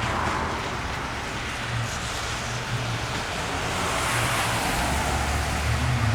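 A car passing on a rain-soaked street, its tyre hiss on the wet pavement swelling and fading about four seconds in, over steady rain hiss and a low engine rumble that grows near the end.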